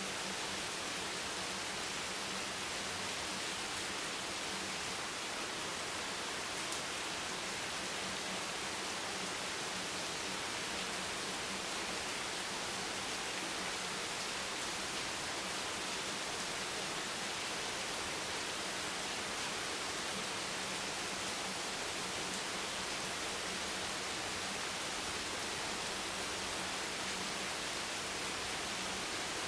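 Steady rain, an even hiss that holds without change.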